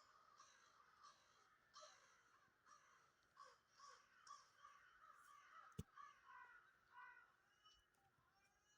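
Faint chirping of birds, many short calls in quick succession, with a single sharp click about six seconds in.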